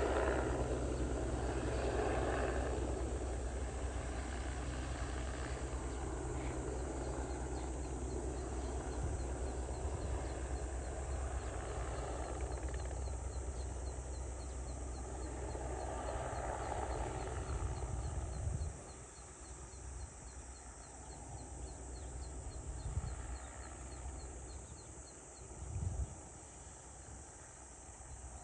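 Crop-spraying helicopter's rotor and engine hum, steady and slowly fading, which drops away suddenly about two-thirds of the way through. A fast, even series of high chirps runs through the second half over quiet rural outdoor ambience.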